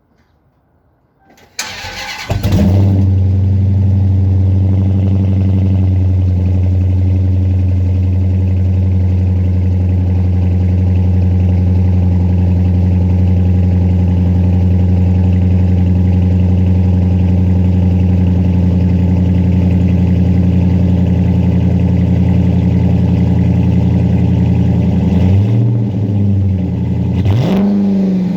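2017 Dodge Challenger R/T's 5.7-litre HEMI V8, run through Flowmaster Super 10 mid mufflers with the rear resonators deleted, cranks and fires about two seconds in, flares up, then idles steadily and loudly. Near the end it is blipped twice.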